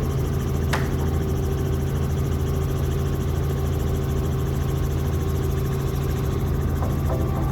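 Helicopter engine and rotor drone, steady and loud, with one sharp click about a second in.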